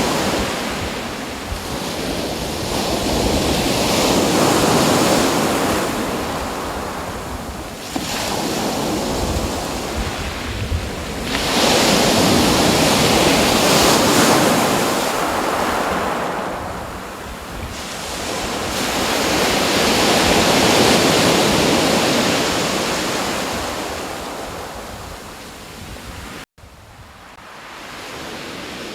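Waves washing in, a rushing hiss that swells and ebbs every several seconds. Near the end it cuts out for an instant and comes back quieter and steadier.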